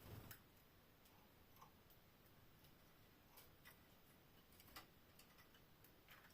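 Near silence with faint, irregular small clicks and taps, the loudest at the very start and one almost five seconds in.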